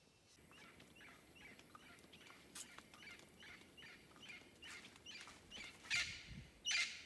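A bird calling: a steady series of short, downward-sweeping calls, about two a second, growing louder, with the loudest two near the end.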